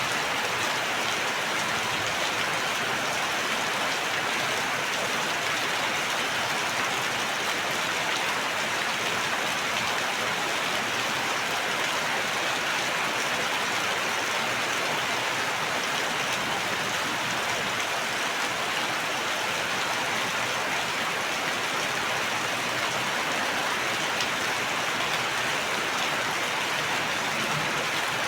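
Steady rain falling and pattering on a surface, an even hiss without pauses.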